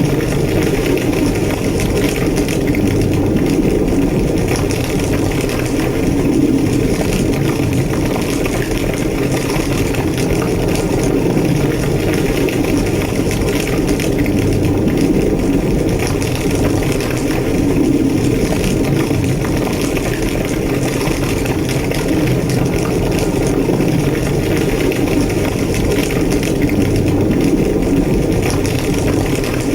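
Large structure fire, a burning building, roaring with a steady low rumble and dense crackling throughout.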